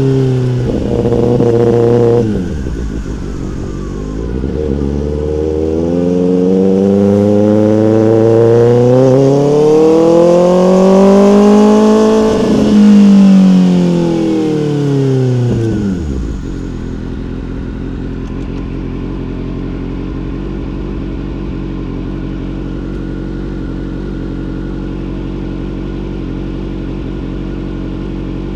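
Motorcycle engine revving: a drop in pitch about two seconds in, then a long pull up to a peak about twelve seconds in, falling away again, and settling to a steady idle from about sixteen seconds on.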